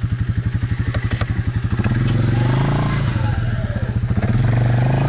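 Off-road vehicle engine idling with a fast, even pulse, then revved up twice in long swells.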